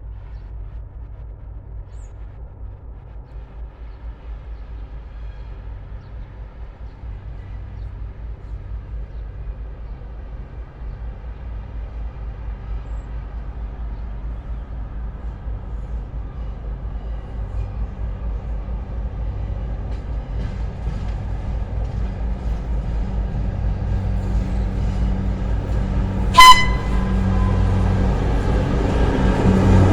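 A PKP Cargo freight train's locomotive approaching, its engine hum growing steadily louder. Near the end it gives one short horn blast.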